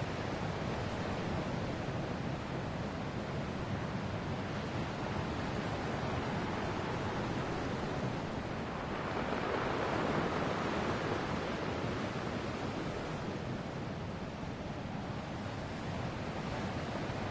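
Ocean waves breaking on a shore: a continuous wash of surf, with one wave swelling louder about nine seconds in and fading over a few seconds.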